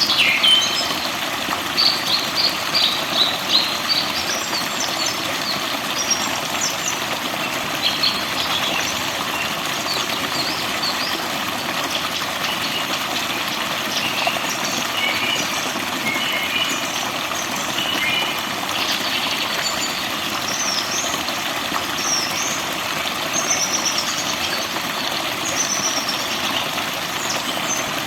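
Forest songbirds chirping and singing, a quick run of loud notes a couple of seconds in, then scattered high whistles and short rising and falling calls, over a steady rush of flowing water.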